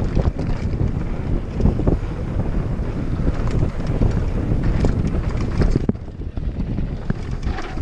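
Wind buffeting the microphone over the clatter and knocks of a mountain bike descending a rough downhill trail. The noise eases off about six seconds in.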